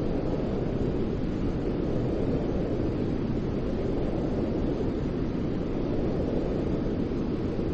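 Steady white-noise sleep sound: an even, deep rushing hiss with most of its weight low and little treble, unbroken and unchanging.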